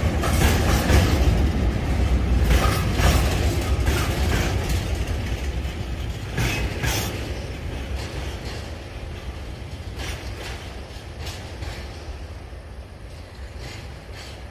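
Train passing, its wheels clacking over rail joints at irregular intervals, the heavy rumble fading steadily as it moves away.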